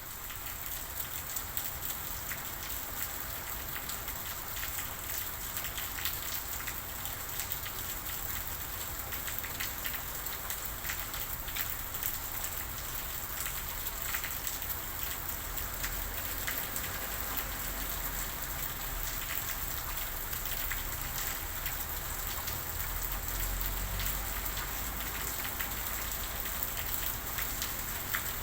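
Steady rain falling, a constant hiss with many small drop ticks and a low rumble underneath.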